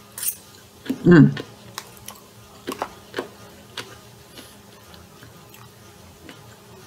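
A person chewing crisp sliced cucumber, with sparse crunches and clicks. A short vocal sound comes about a second in.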